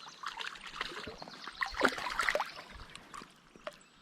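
Shallow creek water splashing and trickling in small irregular splashes, loudest about two seconds in and dying away near the end.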